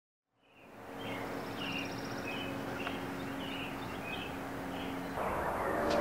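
Outdoor ambience fading in from silence: small birds chirping in short repeated calls over a steady low hum and background noise. Music begins near the end.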